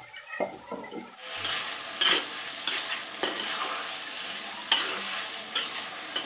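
Chicken pieces frying in oil in a kadai, sizzling steadily from about a second in. A metal spatula stirs them, scraping and clanking against the pan now and then.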